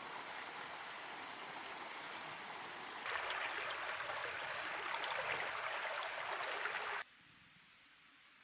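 Outdoor trail ambience with no voices, changing abruptly twice: first a steady hiss with a high steady tone over it, then about four seconds of louder rushing noise with small ticks, then a faint high hum near the end.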